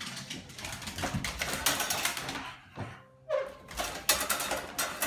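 A dog pawing and scratching at a front door, rattling the metal mail slot flap in fast clattering runs, with a short pause a little past the middle.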